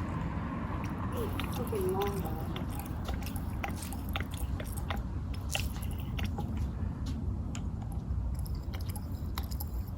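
Small scattered clicks and crackles of handling over a low steady rumble, with a couple of short squeaks about one to two seconds in, as gasoline is squeezed from a plastic squeeze bottle into the carburetor's float bowls to prime the engine.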